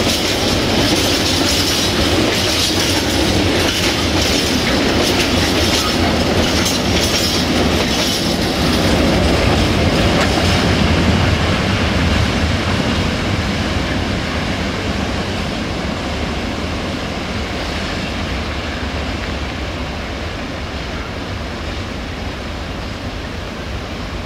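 Freight train's open wagons rolling past, their wheels clicking over the rail joints. About halfway through the sharp clicking fades and the rolling slowly dies away as the end of the train pulls off into the distance.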